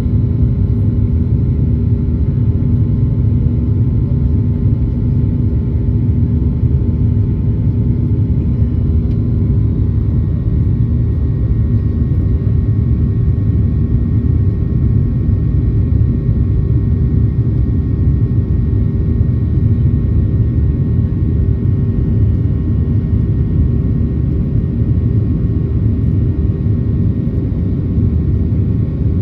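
Boeing 737-800's CFM56 turbofan engines running steadily at high takeoff or climb thrust, a constant deep rumble with a steady hum over it, heard from inside the cabin.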